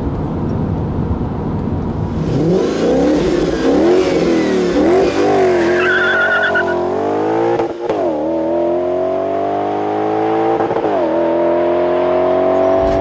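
Supercharged Audi S5 4.2-litre V8 through a straight-through performance exhaust: a low rumble, then revving up and down, then accelerating hard with the pitch climbing and two brief dips like upshifts about eight and eleven seconds in. A short wavering high squeal comes about six seconds in.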